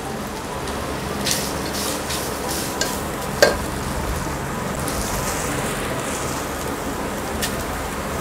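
Grated coconut and chopped nuts frying in ghee in a nonstick pan, stirred with a plastic spatula: a steady sizzle with a few short scrapes and knocks of the spatula against the pan, the sharpest about three and a half seconds in. The coconut is being fried to take away its raw smell.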